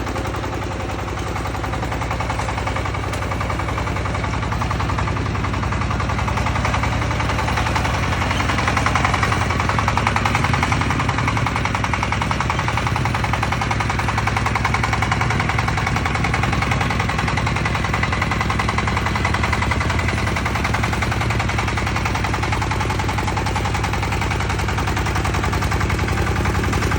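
Small engine of a remote-controlled tracked mini tractor running steadily with a rapid, even pulsing, getting a little louder about eight seconds in.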